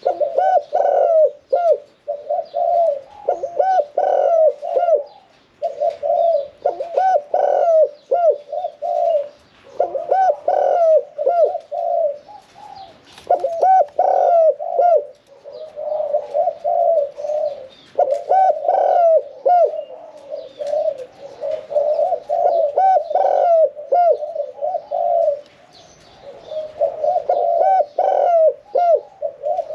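Spotted dove cooing, phrase after phrase with short pauses between. It is a medium-pitched bird singing the 'khan yon 1 kuk' song pattern that Thai dove keepers prize.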